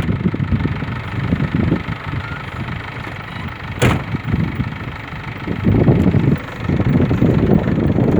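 Gusty wind buffeting the microphone in rising and falling rumbles, as rain approaches. There is a single sharp click about four seconds in.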